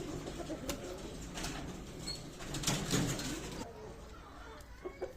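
Low cooing bird calls, loudest about two and a half to three seconds in, with a few sharp clicks.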